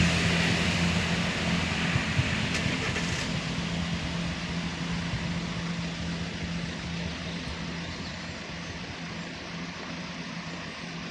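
Class 165 diesel multiple unit running past and moving away: a steady engine note with rail noise, fading gradually.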